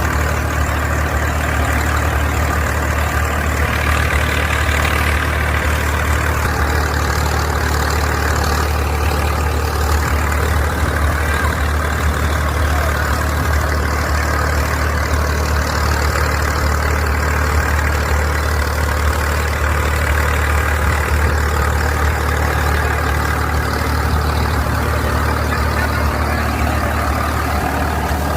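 Swaraj 855 tractor's three-cylinder diesel engine running steadily, a constant low hum with no change in speed.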